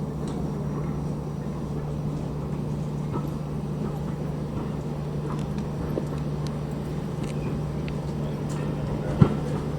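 Steady running noise of a railway train, a constant low hum under a rumbling haze, with faint scattered clicks and one sharp knock about nine seconds in.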